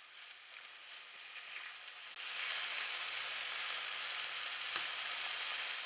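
Tomato slices sizzling in hot oil in a non-stick frying pan while they are turned over with a wooden spatula. The sizzle steps up in loudness about two seconds in and then holds steady.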